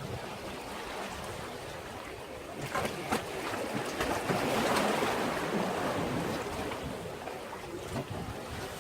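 Sea waves washing against a breakwater, swelling into a louder surge about halfway through, with a few short knocks just before it.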